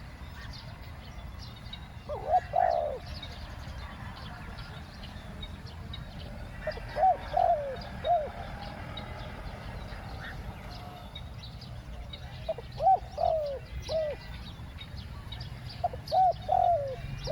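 Spotted dove cooing: four phrases of a few rounded, falling coo notes each, spaced several seconds apart, with faint chirps from other small birds behind.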